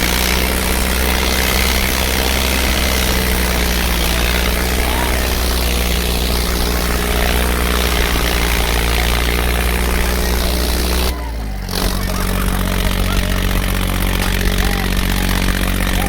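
Tractor diesel engine running steadily, with a low, even drone. About 11 seconds in the sound briefly drops, then resumes with a slightly changed pitch.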